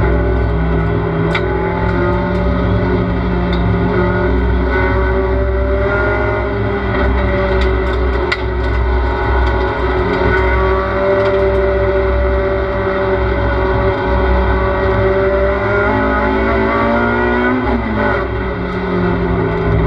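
Race car engine heard from inside the cabin, held at high revs under power. About sixteen seconds in the engine note falls away as the throttle comes off, then climbs steeply again as the car accelerates.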